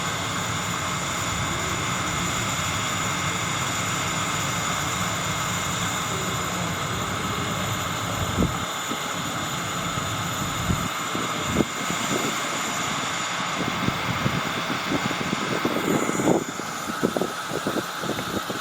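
185 series electric train running a steady mechanical hum with several held whining tones. From about eight seconds in, irregular knocks and clatter join it, and a faint falling whine comes near the end.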